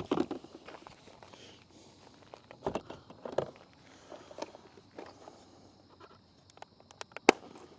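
Footsteps with scattered knocks and rustling as leftover wood and trash are handled in a campfire ring, and a sharp click near the end.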